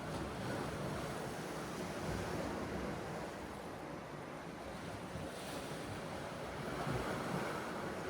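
Sea surf washing ashore in a steady wash, with wind buffeting the microphone; the surge of the waves swells about half a second in and again near the end.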